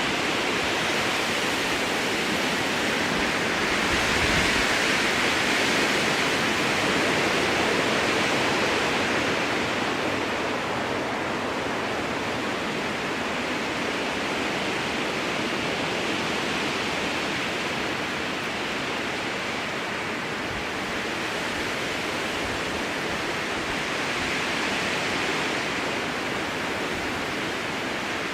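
Strong wind blowing through a conifer forest: a steady rushing in the branches that swells about four seconds in, eases through the middle and builds again near the end.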